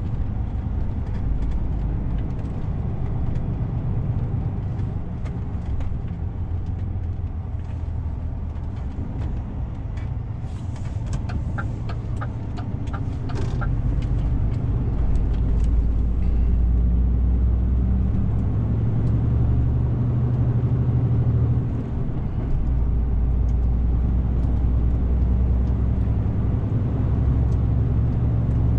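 DAF CF 450 truck's engine running under way, heard from inside the cab as a steady low drone that grows louder and heavier about halfway through. A short run of evenly spaced ticks, about two to three a second, sounds over it midway.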